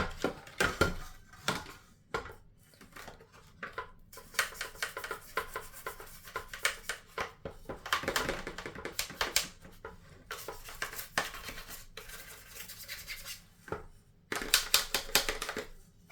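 An old toothbrush scrubbing the plastic detergent drawer of a Samsung washing machine: runs of fast, scratchy strokes with short pauses between them, to loosen dried-on residue.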